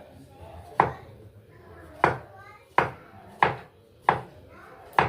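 Kitchen knife chopping salad vegetables on a cutting board: six sharp, separate chops at an uneven pace, about one a second.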